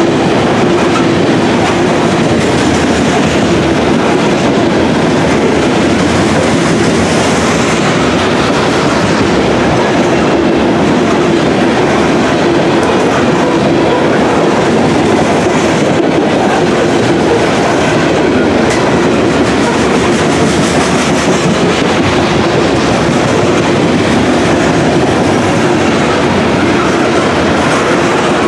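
Covered hopper cars of a freight grain train rolling past, their steel wheels running loud and steady on the rails, with a steady hum held under the noise.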